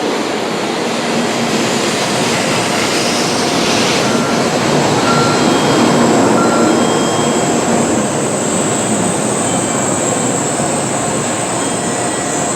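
Shinkansen train rolling into the platform and slowing to a stop, with steady rolling noise and a thin high whine that grows stronger about halfway through.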